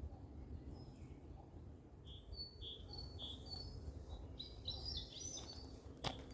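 Small songbirds chirping: a run of short, high, repeated notes from about two seconds in, over a steady faint low rumble of background noise. A single sharp click near the end.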